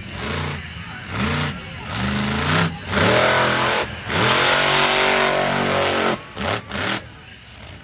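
Monster truck engine revving in a series of throttle blips, about seven, each rising and falling in pitch. The longest and loudest run through the middle, and two short blips come near the end.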